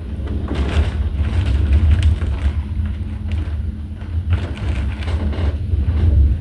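Violent thunderstorm wind gusting hard and buffeting the microphone with a heavy low rumble, while hissing gusts swell and fade every second or so.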